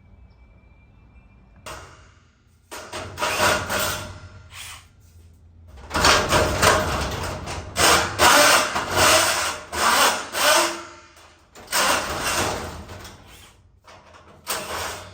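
A power drill running in repeated short bursts, about six of them, each a second or two long with pauses between, backing out the screws that hold a garage door's steel reinforcement strut.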